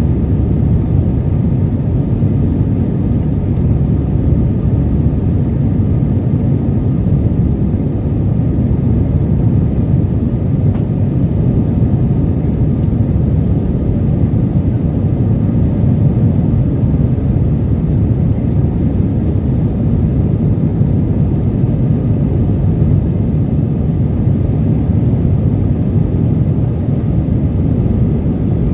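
Steady low rumble of an Airbus A320's engines and airflow, heard from inside the passenger cabin in flight, holding even throughout.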